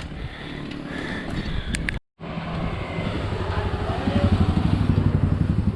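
A motor vehicle engine running nearby, a low pulsing sound that grows louder around the middle, over road and wind noise. It starts just after a brief total dropout where the recording cuts.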